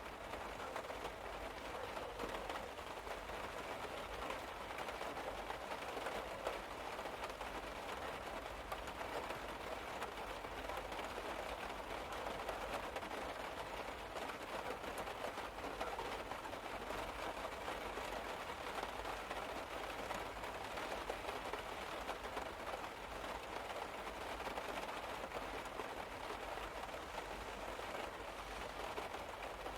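Steady rain pattering on a car's roof and body, heard from inside the car as an even hiss full of fine, dense ticks of drops.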